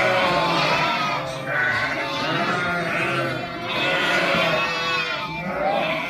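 A flock bleating, with many animals calling over one another in overlapping, wavering cries.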